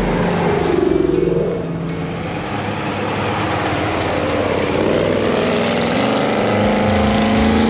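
Car engine revving, its pitch climbing and falling several times and then rising steadily near the end.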